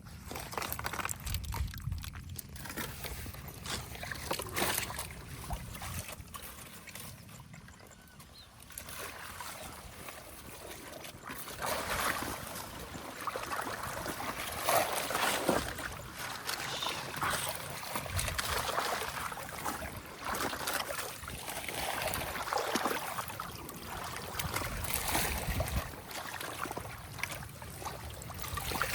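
Water sloshing and trickling in irregular splashes. It is quieter for the first several seconds and busier and louder from about halfway through.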